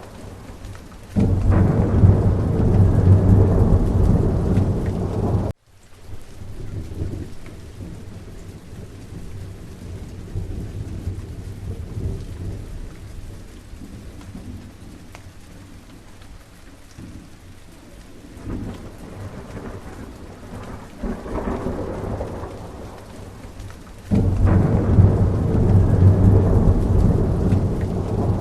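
Steady rain falling through a thunderstorm, with thunder rumbling. A loud, low rumble rises about a second in and cuts off abruptly, the rain goes on softer with fainter rumbles, and another loud rumble comes in near the end.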